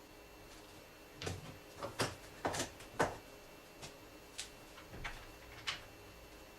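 Irregular knocks and clacks of tools and parts being handled during work on the car's cooling fan assembly. About ten sharp strikes come over four or five seconds, the loudest a little past the middle.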